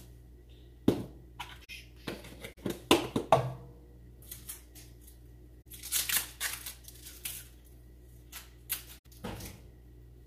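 Kitchen handling noises while preparing food: irregular knocks and clatters with short rustling and tearing scrapes, the loudest a sharp knock about a second in and a cluster of knocks around three seconds in.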